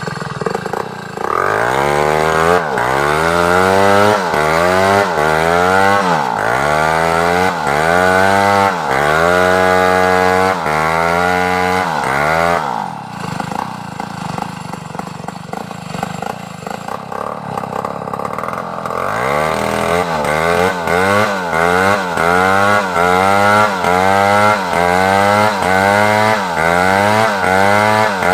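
Large chainsaw cutting wood, its engine pitch rising and falling about once a second as the chain bites and frees in the cut. About midway it runs steadier and quieter for several seconds, then takes up the rising and falling again.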